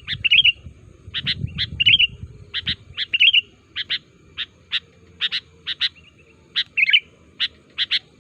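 Sooty-headed bulbul (kutilang) calling: a quick, even series of short sharp chirps, about two or three a second, with brief warbled phrases mixed in.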